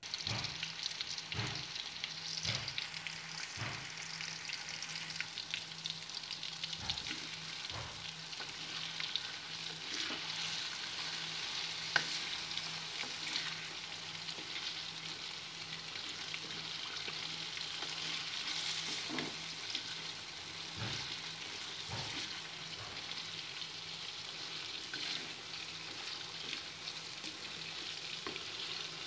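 Diced potatoes sizzling steadily in hot oil in an aluminium wok. A wooden spatula stirring them gives occasional knocks and scrapes against the pan.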